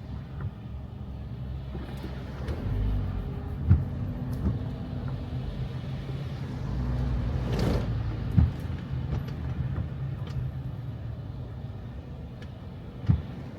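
A car running with a steady low hum and rumble, several short sharp knocks, and a swell of noise about seven and a half seconds in.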